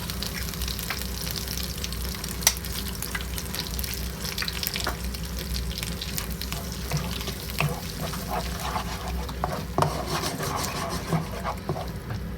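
Eggs, onions and ginger-garlic paste sizzling in hot oil in a wok on high heat, with a spatula scraping and knocking against the wok as it is stirred. A steady low hum runs underneath.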